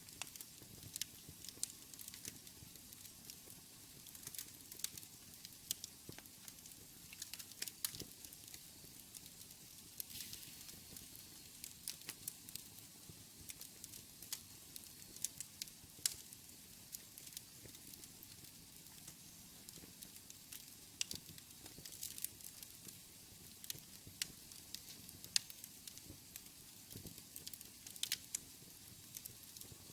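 Wood fire burning in a fireplace: a faint steady hiss with irregular sharp crackles and pops, several a second.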